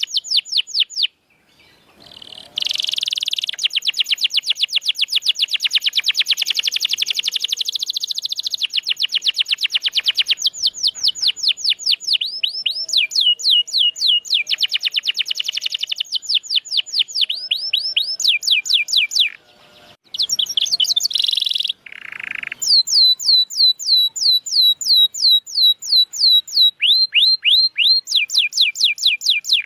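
Domestic canary singing long rolls of rapid repeated notes, each note a quick downward sweep, with phrases changing in speed and pitch and brief breaks about a second in and around twenty seconds in.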